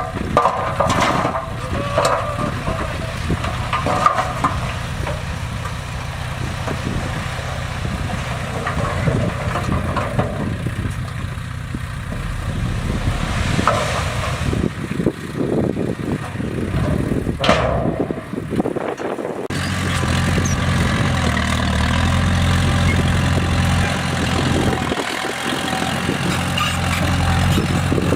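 Heavy diesel engine of a bulldozer running under load, with scattered knocks and clanks. About two-thirds of the way in the sound changes abruptly to a steadier, deeper engine drone.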